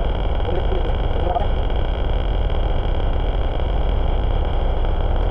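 Heavy truck engine idling steadily, a low even rumble.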